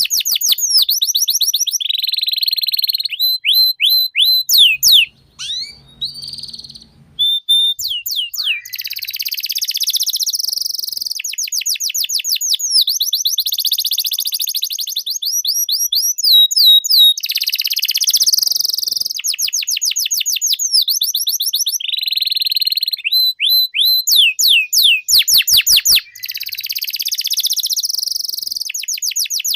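Domestic canary singing a long, loud song of rapid trills, runs of fast repeated notes and quick sweeping whistles, with a brief break about five seconds in.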